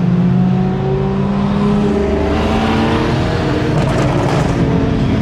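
Car engine running at a steady, loud note with small rises and falls in pitch, and some added road or tyre hiss midway.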